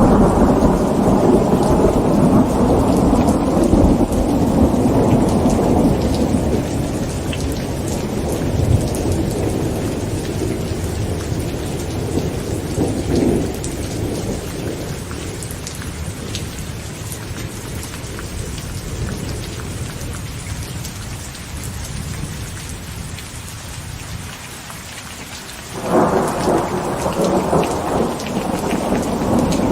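Heavy rain falling on a tent, with thunder rumbling at the start that dies away over about ten seconds and a smaller rumble midway. Near the end a sudden, loud thunderclap breaks in and rolls on.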